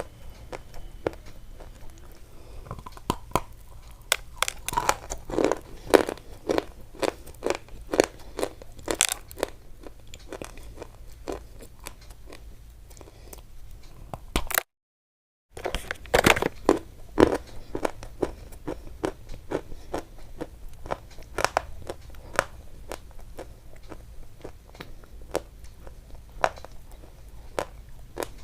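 Crunchy chewing: close, repeated crisp crunches of food being bitten and chewed, coming in irregular clusters. The sound cuts out completely for about a second midway.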